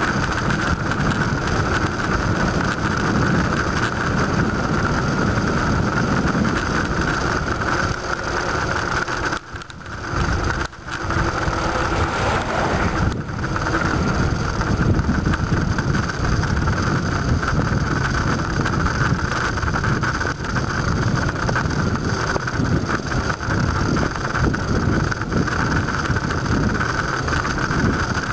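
Steady wind rush on the microphone of a bicycle being ridden, with road rumble beneath, dropping away briefly twice about ten seconds in.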